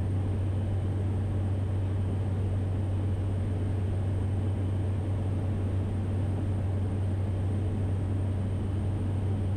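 Cessna 208 Caravan's single turboprop engine and propeller droning steadily in the cockpit during the approach, with the first stage of flaps set. A strong, even low hum with no change in pitch.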